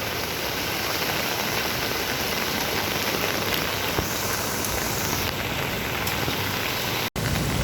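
Steady rain falling, an even hiss with no pauses, with a momentary dropout near the end.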